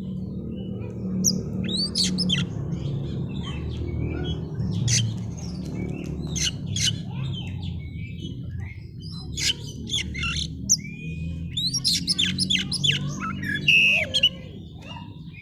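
Oriental magpie-robin (kacer) singing a busy run of quick sharp notes and short gliding whistles, over a steady low hum.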